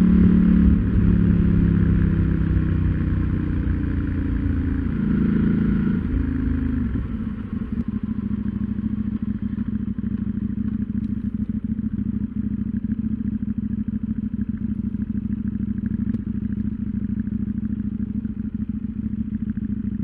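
KTM 790 Duke's parallel-twin engine slowing as the bike decelerates, with a short throttle blip about five seconds in. From about seven seconds it settles into a steady, quieter idle.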